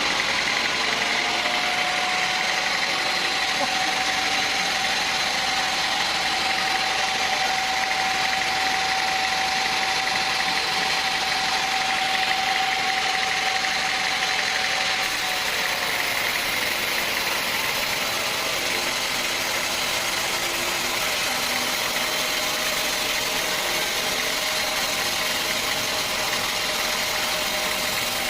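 Sawmill machinery running steadily, with a steady high whine from about a second in until about halfway through.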